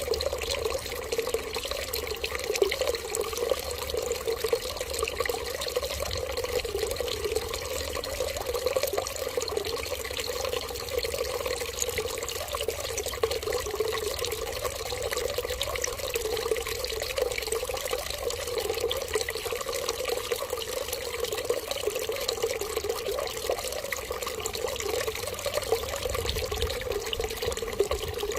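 Water running in a steady, continuous stream, unchanging throughout.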